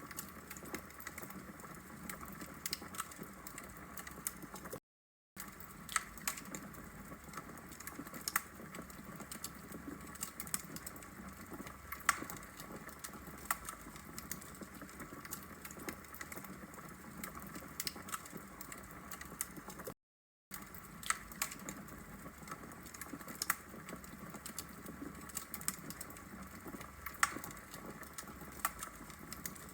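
Wood logs burning in a brick fireplace: a steady soft hiss with irregular sharp crackles and pops. The sound drops out completely for an instant twice.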